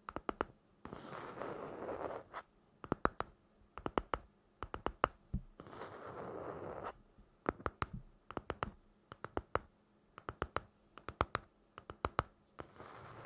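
Quick clusters of crisp taps and clicks, broken twice by a longer scratching stretch, about a second in and again near six seconds.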